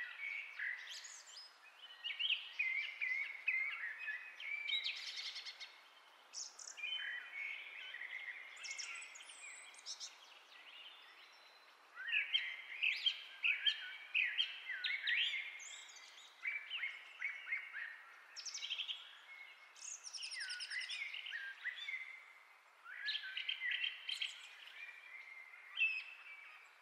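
Birds chirping and singing, fairly faint: a steady run of short, varied chirps and trills with brief gaps.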